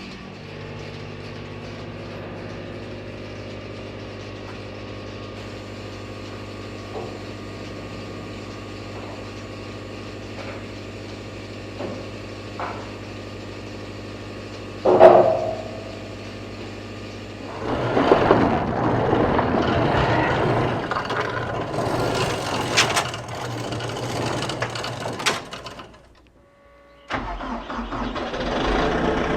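An engine idling steadily, then running louder and rougher from about 17 seconds in, with a short loud sound about 15 seconds in and a brief drop-out near the end.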